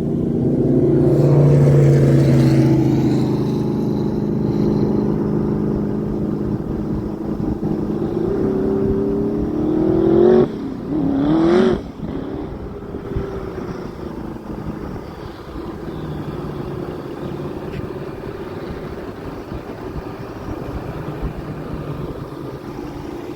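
An engine running steadily, revved hard twice in quick succession about two-thirds of the way into the first half, its pitch climbing each time and then falling back to a lower, steady run.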